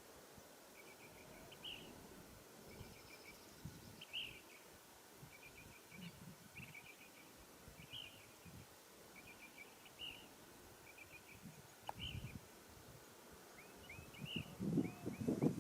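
Faint birdsong: short chirps and trills repeated about once a second, over quiet background noise. Louder thumps or rustling begin near the end.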